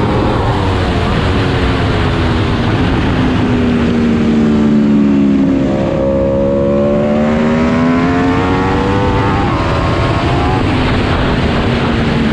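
Aprilia RSV4 superbike's V4 engine running hard on track, its pitch sliding down and back up as the revs change, over a steady rush of wind noise.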